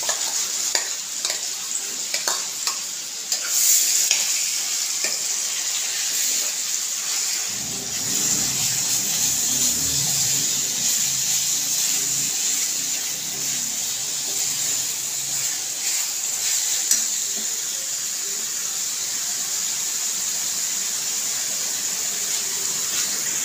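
Ground date (chhuhara) and raisin paste frying in hot oil in a metal kadhai, with a steady sizzle as it is stirred. A metal spoon scrapes and clicks against the pan during the first few seconds.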